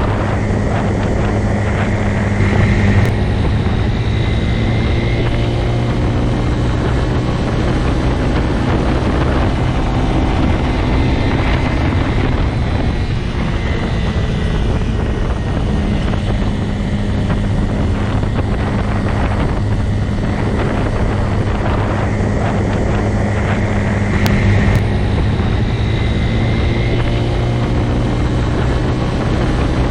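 Motorcycle engine running steadily with a continuous low hum, its pitch drifting slightly up and down, with short swells in loudness about three seconds in and again about twenty-four seconds in.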